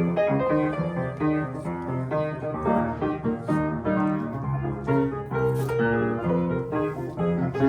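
Solo piano playing a flowing run of notes and chords.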